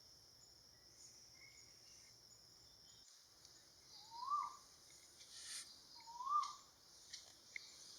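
Hooded pitta calling: two whistled calls about two seconds apart, each sliding up and then down. A steady high insect drone runs underneath.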